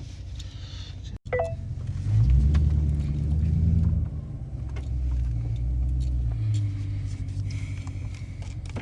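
Exhaust rumble of a 2013 Dodge Charger with its muffler and resonator deleted, swelling as the car accelerates about two seconds in, easing off, then swelling again for a second or two. A brief beep sounds just over a second in.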